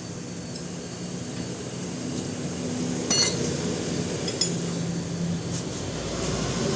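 Light metallic clinks, two sharper ones about three and four and a half seconds in, over a steady low hum.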